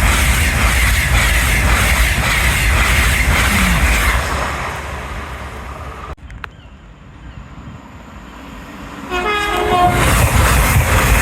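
A train passing close by, its wheels clattering in a regular beat over the rails. It dies down, and about nine seconds in a train horn sounds briefly in several short notes before the loud rumble returns.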